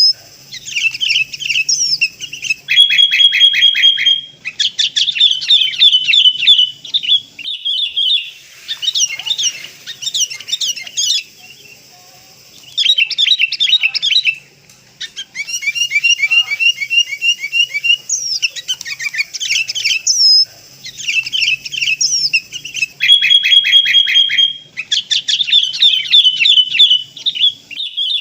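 Sooty-headed bulbul calls played as a lure recording: bursts of fast chattering and trilled notes with short pauses between them, including a brief held whistle. The same run of phrases comes round again about twenty seconds later, as a looped track.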